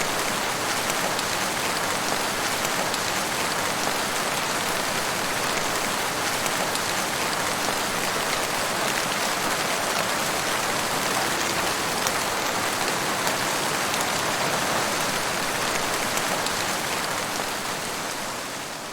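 Steady rain falling in a forest, a dense even hiss with countless small drop ticks, fading out near the end.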